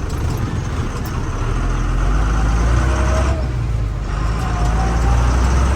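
A truck's diesel engine pulling away and picking up speed, getting louder over the first two seconds, with a deep, steady rumble.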